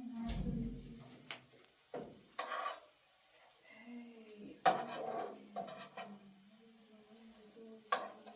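Pots and utensils being handled and stirred during cooking, with scattered knocks and scrapes.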